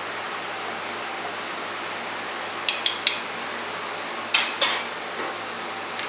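Kitchen dishes and utensils clinking and clattering over a steady background hiss: three light clicks a little before halfway, then two louder clatters.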